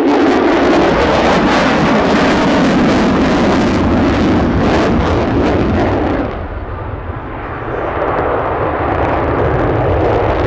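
Lockheed Martin F-35A Lightning II's single Pratt & Whitney F135 jet engine, loud in flight. About six seconds in the hiss falls away and the sound eases, then it builds again.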